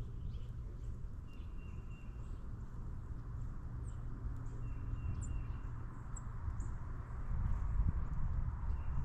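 Songbirds calling at backyard feeders: many short, high chips and a clear whistled note on one pitch, repeated about every three and a half seconds. A steady low rumble runs underneath.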